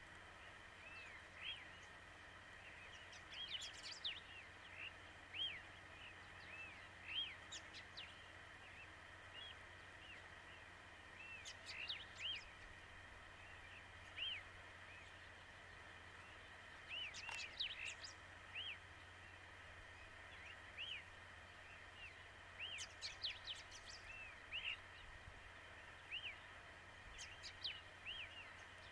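Birds calling: short arched chirps every second or two, with a few quick clusters of sharper, higher notes, over a faint steady hum.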